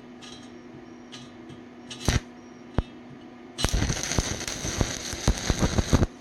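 Stick arc welding with a 3/32-inch 7018 rod at 75 amps on rusty steel pipe. Two short spits come as the rod is struck, then the arc catches and runs for about two and a half seconds with irregular sharp pops before cutting off suddenly near the end.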